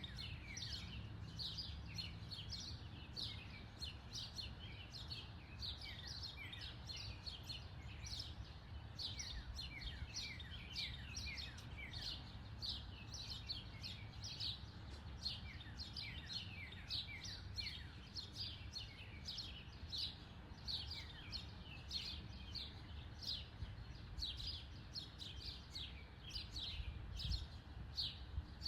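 Small birds chirping steadily, many short falling chirps a second, over a low steady background rumble.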